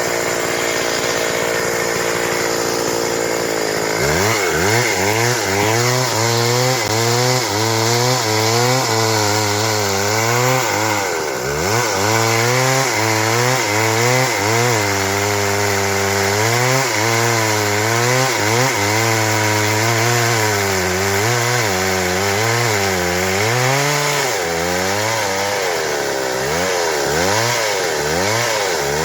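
Stihl MS 382 two-stroke chainsaw running at high revs while cutting through wood. After the first few seconds its engine note keeps rising and falling as the chain bites under load, with sharper dips about 11 seconds in and near the end.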